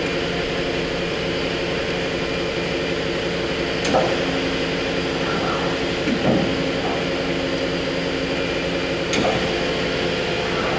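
Hyundai-Kia HS400 horizontal machining center indexing its pallet, with an air compressor running: a steady mechanical hum with several held tones, broken by three short clunks about four, six and nine seconds in.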